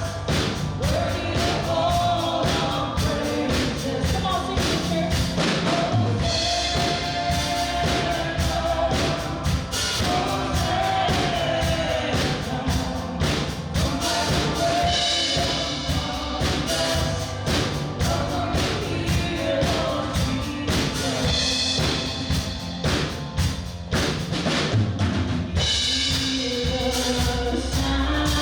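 A worship band playing with singers: voices singing a melody over a drum kit keeping a steady beat.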